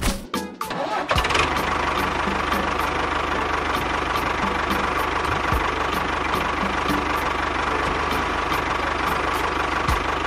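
A small engine running steadily, starting about a second in after a few sharp clicks, with a regular light ticking throughout.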